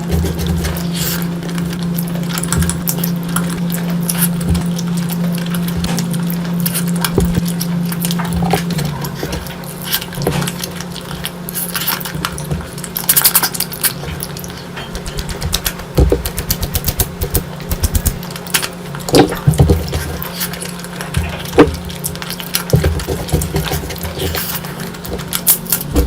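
Close-miked eating sounds: wet chewing and smacking with irregular sharp clicks, over a steady low hum.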